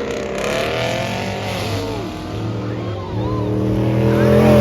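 Car engine running loud and revving at a car meet, dipping briefly and then holding steady at higher revs toward the end, with voices shouting over it.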